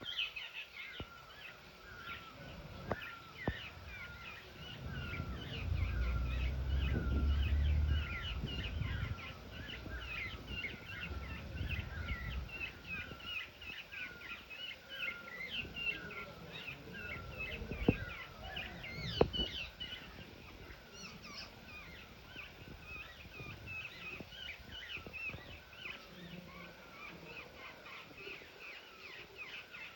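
Birds chirping rapidly and continuously, several short high chirps a second. A low rumble from about five to nine seconds in and a few sharp clicks break in.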